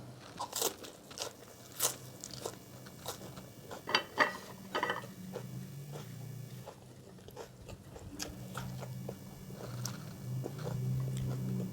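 Close-up mouth sounds of biting and chewing crisp raw vegetables (lalapan), a run of crunchy bites in the first half, then quieter chewing.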